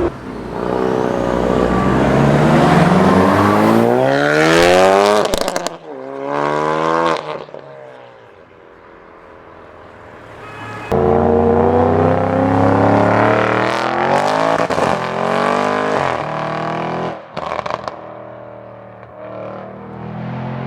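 Tuned high-performance car engines accelerating hard. The engine pitch climbs steeply for about five seconds and breaks off, climbs again briefly, then after a quieter stretch a second loud run starts suddenly about eleven seconds in and dies down near the end.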